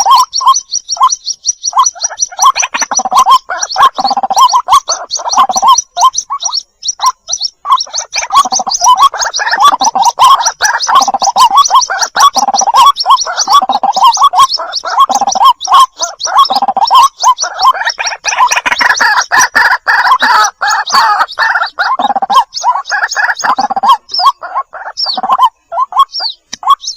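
White-breasted waterhen chicks calling for their mother: a dense, unbroken run of short repeated calls, with fast high-pitched peeps layered over lower notes.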